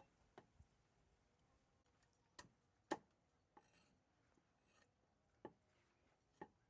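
Near silence broken by a few faint, irregular knocks and clicks, the loudest about three seconds in.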